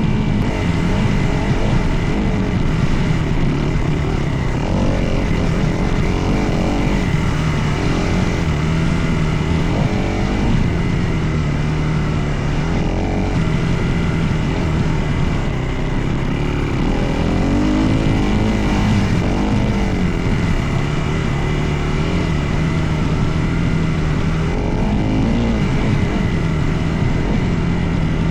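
Dirt bike engine running under way, its pitch rising and falling over and over as the throttle is worked.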